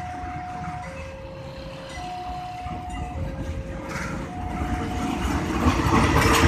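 Railway level-crossing warning alarm sounding two alternating tones, high then low, each held about a second. Over it a train's rumble grows louder near the end as the train approaches the crossing.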